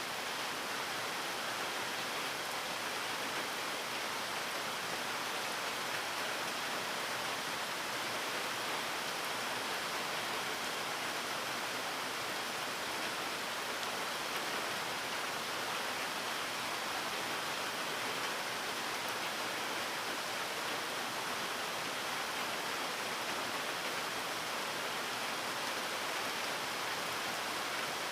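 Steady rain falling, a continuous even hiss with no separate drops or thunder standing out.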